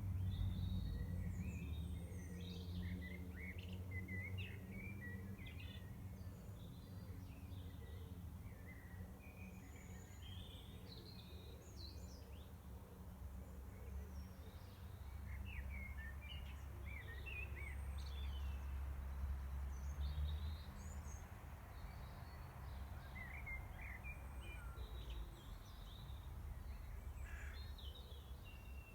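Several songbirds singing and calling at once, a busy mix of short chirps, trills and whistles, over a steady low rumble.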